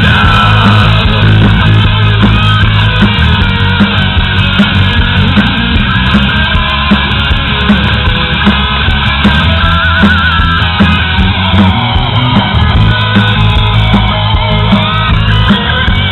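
Loud rock music with guitar over a steady drum beat.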